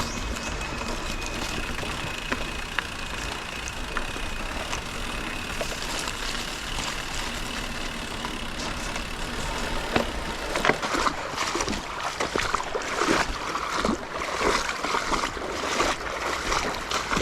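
Mountain bike ridden along a dirt trail: a steady rush of tyre and air noise, then from about ten seconds in, irregular rattling knocks as the bike jolts over rough ground.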